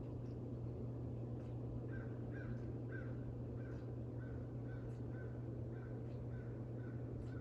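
A bird calling a quick series of short, even notes, about two a second, starting about two seconds in, over a steady low hum.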